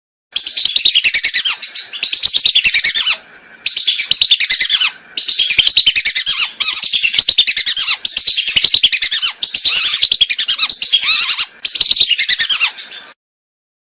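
Whistling ducks (belibis) calling: dense, rapid runs of high twittering whistles, loud and continuous. The recording is played as a lure and comes in about five bursts that start and cut off abruptly, with short gaps between them.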